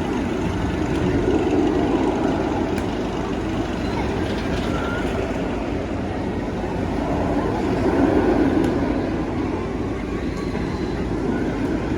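Tugboat Tailspin amusement ride in motion: a steady noisy rush that swells twice as the ride swings, with faint voices underneath.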